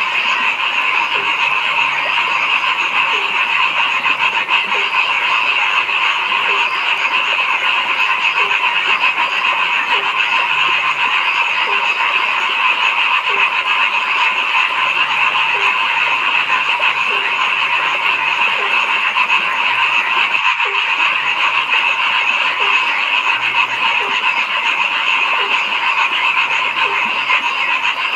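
Dense chorus of frogs calling without a break, with a lower croak repeating roughly once a second.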